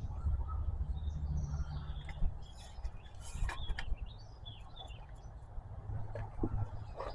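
Small songbirds chirping and twittering, over a low steady rumble, with a few sharp clicks and knocks in between.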